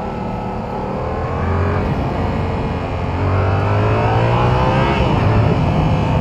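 Yamaha R7's 689 cc parallel-twin engine accelerating under way. Its pitch climbs steadily for several seconds, then drops sharply about five seconds in as it shifts up. The stock bike is fairly quiet.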